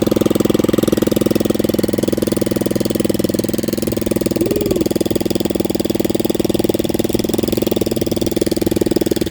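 Engine running steadily with a rapid, even exhaust pulse and no muffler: its Cherry Bomb muffler has fallen off, leaving the exhaust open.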